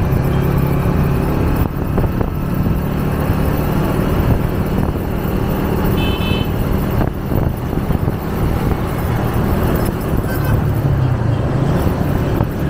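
125 cc motorcycle engine running while riding in traffic, with wind and road noise. A short horn toot sounds about halfway through, and near the end the engine note dips and rises again.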